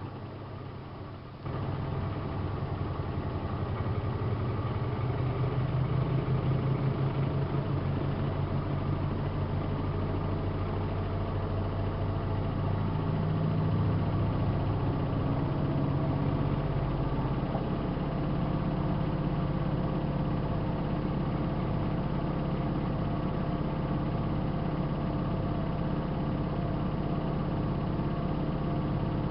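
Miele Softtronic W3657 front-loading washing machine running with a mechanical hum. The hum steps up in level about a second and a half in, shifts in pitch over the next fifteen seconds, then holds steady.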